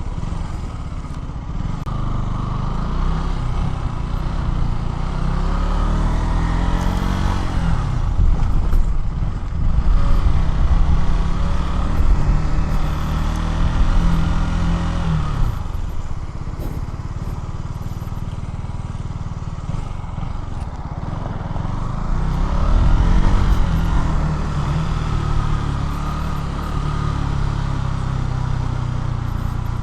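KTM Duke 200's single-cylinder four-stroke engine under way on the road. The engine note climbs, holds, then falls away twice as the bike accelerates and slows, over a steady low rumble.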